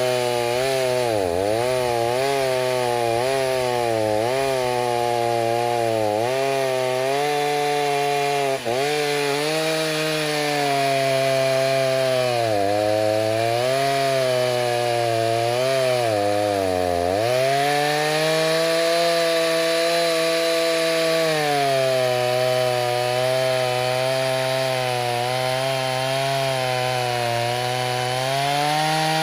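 Stihl 029 two-stroke chainsaw, rebuilt with a 45 mm big-bore cylinder, running at high revs while cutting wood. Its pitch dips repeatedly as the chain bogs under load and picks back up, then holds high and steady through most of the second half.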